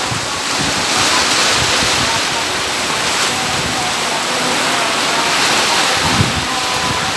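Storm wind and rough surf making a loud, steady rushing noise, with gusts buffeting the microphone near the end.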